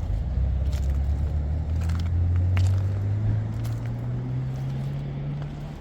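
A car engine running at low revs, its low hum rising slowly and steadily in pitch.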